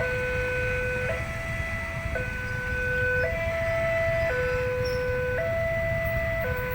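Railway level-crossing warning alarm sounding a repeating two-tone signal, the pitch stepping up and down about once a second, over a steady low rumble. It warns that a train is approaching.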